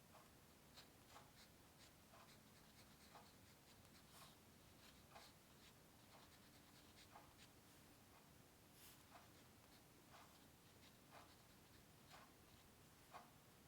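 Quiet, short scratching strokes of a drawing tool on paper, coming irregularly about one or two a second.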